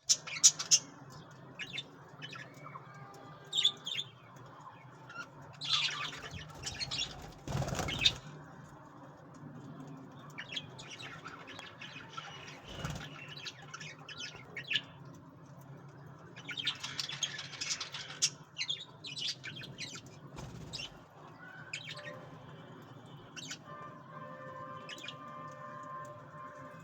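Budgerigars chirping in many short calls, with wings flapping and rustling in bursts, the loudest about eight seconds in, over a steady low hum.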